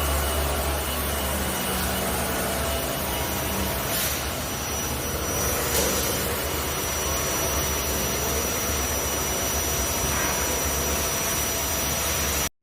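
Vibratory stress relief exciter, an eccentric-weight motor, running steadily: a loud continuous mechanical drone with a low hum. A thin high whine joins about four seconds in, and the sound cuts off suddenly near the end.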